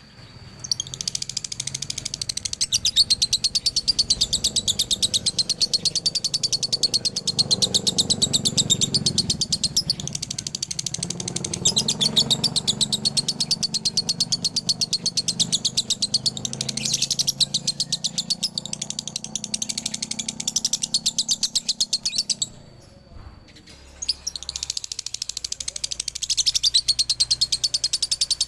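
Male lovebird singing its long, very fast chattering trill ('ngekek'), the double-note 'dobelan' song that keepers prize. It starts just under a second in, breaks off briefly about 23 seconds in, then resumes.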